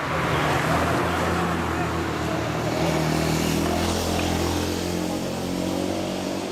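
A motor vehicle's engine running close by, a steady low hum that eases off near the end, with voices over it.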